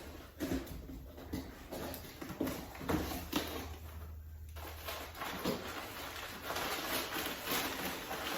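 A mailed package being opened and unpacked by hand: irregular scrapes, rips and knocks of cardboard and packing, turning into a denser rustling about five seconds in.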